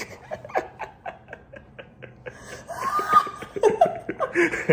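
People laughing in a run of short, quick bursts that grow louder in the last second or two.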